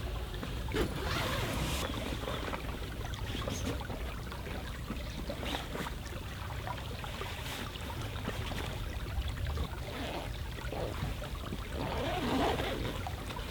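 Forest stream running steadily, with scattered sharp crackles.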